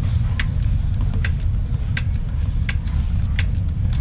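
Hand-lever grease gun being pumped: a short sharp click or squirt with each stroke, about every 0.7 s. Under it runs a steady low rumble.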